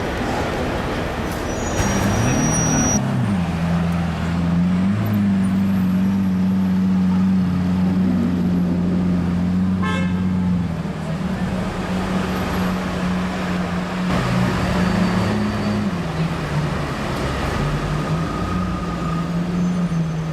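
Car engine running with a steady low hum that shifts up and down in pitch a few times, over street traffic noise.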